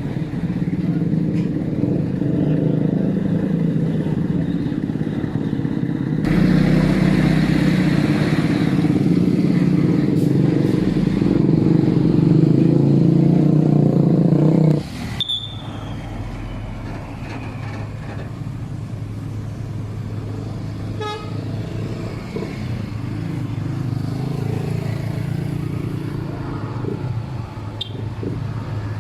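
Heavy truck diesel engine labouring under load on a steep climb, growing louder about six seconds in, then dropping away abruptly about halfway through. Quieter traffic runs on after that, with a short vehicle horn toot.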